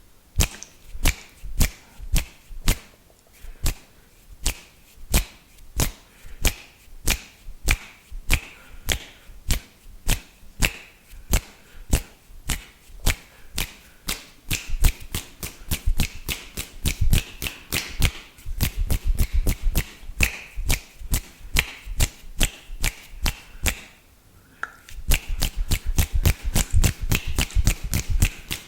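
Close-miked wet mouth sounds: a steady run of spit and lip smacks, about two to three a second, growing denser and heavier in the second half, with a brief pause shortly before the end.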